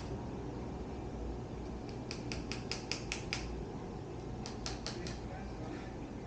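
Quick light taps on a Magura MT7 hydraulic brake being bled, done to work air bubbles loose: a run of about seven taps around two seconds in, then three or four more near the end.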